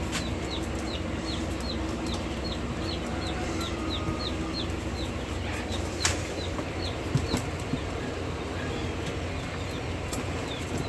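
A chick peeping in a steady series of short, falling peeps, about two a second, which thin out after about seven seconds. Underneath runs a steady low hum, and a few brief knocks come in the middle.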